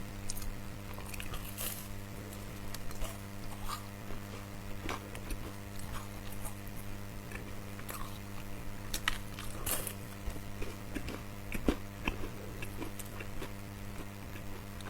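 Close-up biting and chewing of a crisp biscuit, with irregular crunches, the sharpest about 2, 5, 10 and 12 seconds in. A steady low hum lies underneath.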